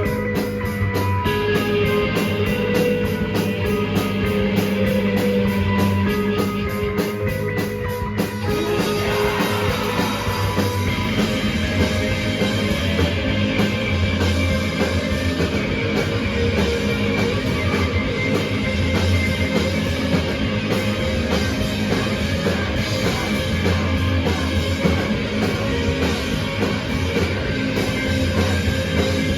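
A live rock band playing with electric guitars and a drum kit. About eight seconds in, the music changes into a denser, fuller full-band section.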